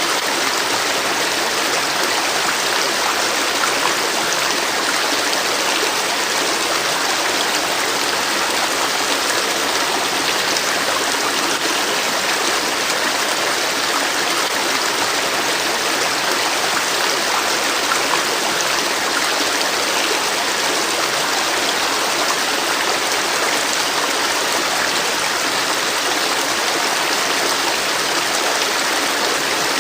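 River water flowing and rushing over stones, a steady even wash of sound.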